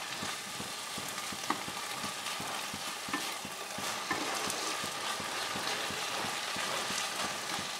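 Malabar spinach, potato and tomato curry sizzling steadily in a kadai while a wooden spatula stirs and turns it, with a couple of light knocks of the spatula against the pan.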